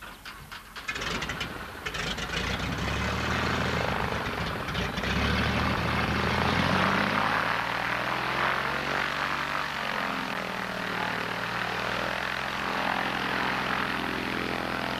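Cessna 180's six-cylinder Continental O-470 engine and propeller at high power, growing louder over the first few seconds and then staying loud and steady as the plane passes close.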